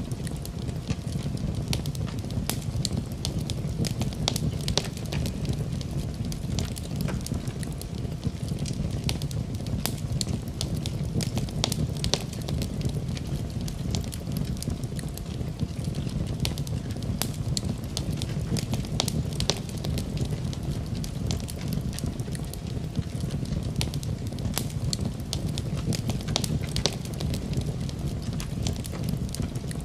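Wood fire burning in a fireplace: a steady low rumble of the flames with many irregular sharp crackles and pops throughout.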